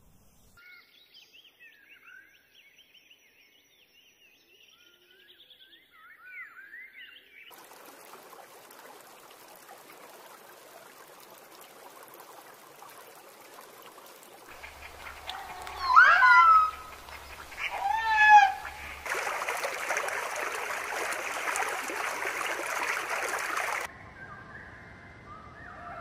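Bird calls over a nature soundtrack: faint chirping at first, then a steady hiss with two loud, gliding calls about two seconds apart in the middle. Near the end comes a few seconds of louder hissing noise, then fainter calls again.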